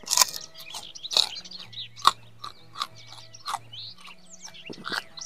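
Close-up crunchy chewing and biting of raw vegetables, a series of sharp crunches, with birds chirping in the background.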